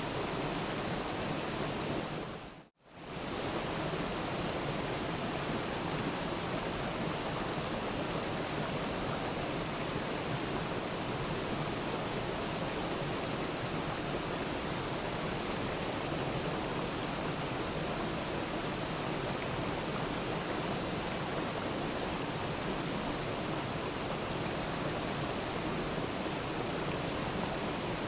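Waterfall: a steady, even rush of falling water. It fades out almost completely for a split second about three seconds in, then returns.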